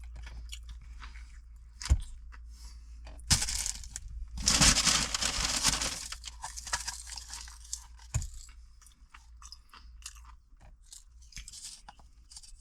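A person chewing and crunching food close up, with a few sharp clicks and a louder noisy stretch about four to six seconds in.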